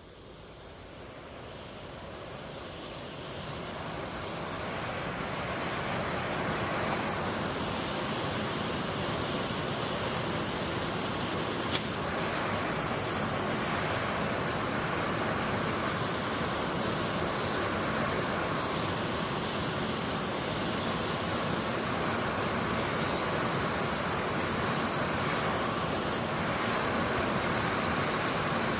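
Daewoo Lanos heater blower fan spinning up over about six seconds, then running steadily with a broad rush of moving air. A single sharp click about twelve seconds in.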